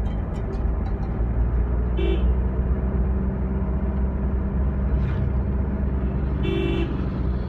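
Motor vehicle running on the road with a steady low engine and road rumble, and two short horn toots, one about two seconds in and a slightly longer one near the end.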